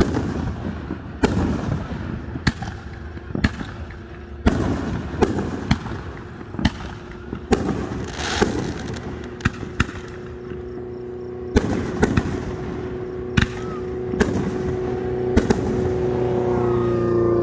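Aerial fireworks going off: sharp booms about every second, each trailing a low rumble, with a longer crackling burst near the middle. A steady hum builds up under the booms over the second half.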